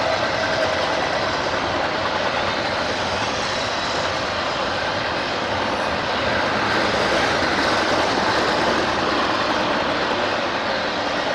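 A train passing the grade crossing: a steady rumbling rush of wheels rolling on the rails.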